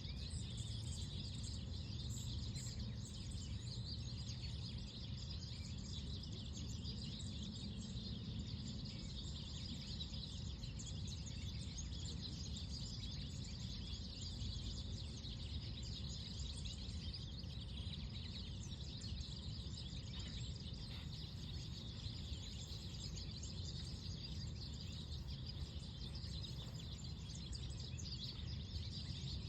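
Small songbirds chirping continuously over a steady low background rumble.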